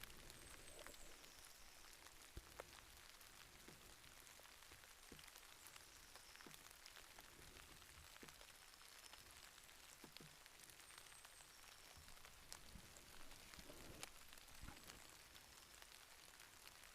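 Faint light drizzle, with many small raindrop ticks over a soft steady hiss, and a few brief high chirps.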